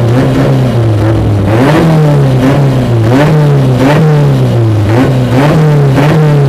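VW Gol N1 rally car's engine revved repeatedly at a standstill, its pitch climbing and falling again every second or so, heard from inside the cabin.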